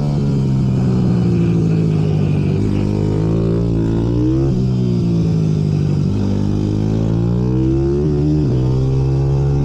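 Several racing minibike engines running hard together, their pitch dropping and climbing again as the riders shift, brake and accelerate, with two or more engines overlapping at different pitches.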